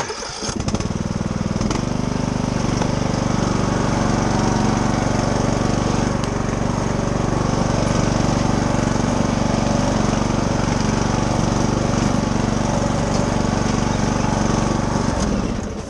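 Riding lawnmower engine running steadily while the mower pulls forward with its load of logs. The engine picks up just after the start and drops away near the end.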